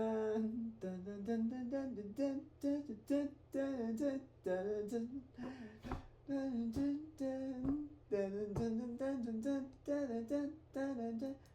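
A man singing a tune in repeated nonsense syllables, 'dun dun dun', in short notes that move up and down, over a faint steady low hum.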